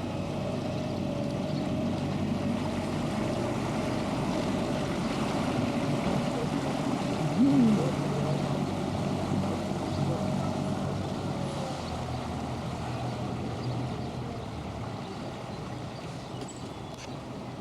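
Canal boat's engine running steadily. About seven and a half seconds in, a short squeal rises and falls in pitch.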